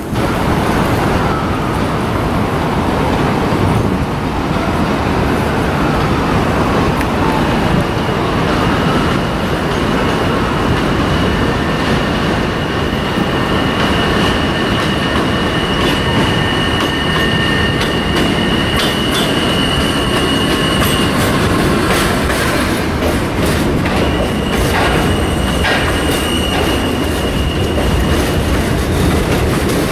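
Train passing: a steady rumble of wheels on rail, with a high, steady wheel squeal through much of it and a run of clicks over rail joints in the second half.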